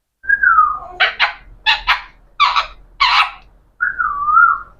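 Talking parrot whistling a falling note, then giving a run of six short harsh calls, and ending with a wavering whistle.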